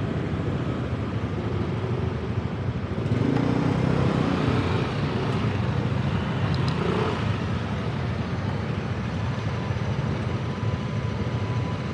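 Motor scooter riding along a road in traffic: steady engine and road noise. It grows louder about three seconds in and eases off again after about seven.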